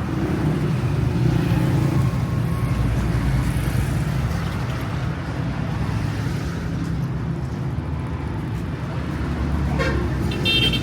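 A motor vehicle engine running steadily at a low, even pitch, with road traffic around it.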